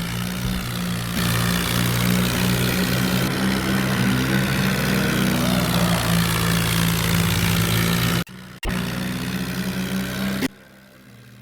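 A tractor's diesel engine running steadily, a low hum with a wide hiss over it. The sound cuts out briefly about eight seconds in and again near the end.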